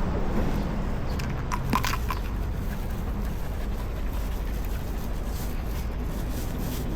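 Street ambience during a dog walk: a steady low traffic rumble, with a brief cluster of short, sharp high clicks or chirps about a second and a half in.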